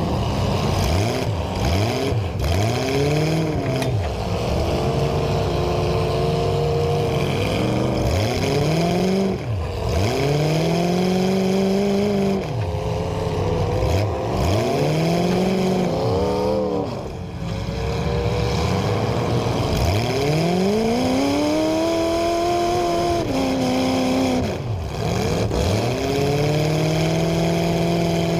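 Demolition derby cars' engines revving hard over and over, their pitch climbing and dropping every second or few over a constant rumble.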